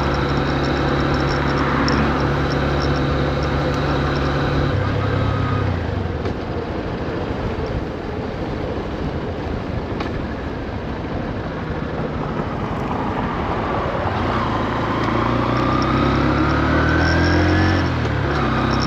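Honda CB125F's air-cooled 125 cc single-cylinder engine, heard from the bike while riding. It runs steadily, then eases off about five seconds in and runs low and quiet for a while. From about two-thirds of the way through it pulls up in pitch under acceleration, with a gear change just before the end. The revs stay modest because the new engine is being run in.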